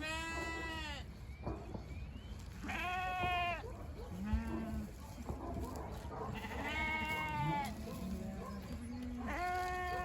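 Several sheep bleating: four loud, long, high bleats a few seconds apart, with shorter, lower bleats in between.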